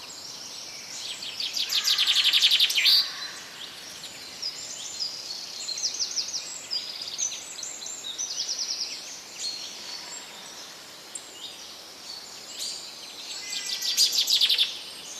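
Several birds singing and chirping over a steady background hiss, with loud fast trills about two seconds in and again near the end.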